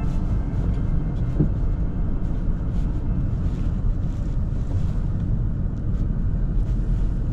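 Car driving: a steady low rumble of road and engine noise heard inside the cabin, with faint scattered ticks.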